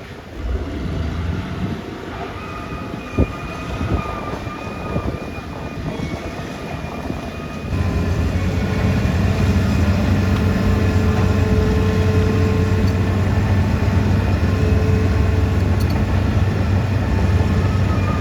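Caterpillar D6R XL crawler bulldozer working: diesel engine running with clanking of the steel tracks and a few sharp knocks. About eight seconds in it turns louder and steadier, with a strong low hum, as the engine takes load.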